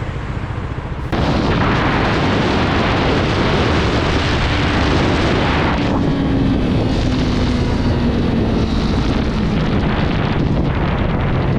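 Heavy wind buffeting on the microphone of a motorcycle at speed, jumping suddenly louder about a second in, with a faint engine tone slowly dropping in pitch under it.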